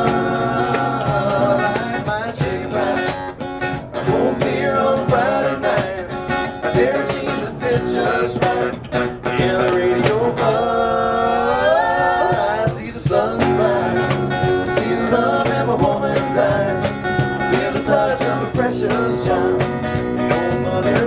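Live country music on acoustic guitar, with singing.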